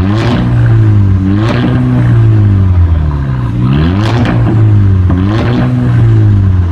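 Tuned VW Golf VI R's turbocharged four-cylinder engine with a valved exhaust, revved four times, each rev climbing sharply and dropping back.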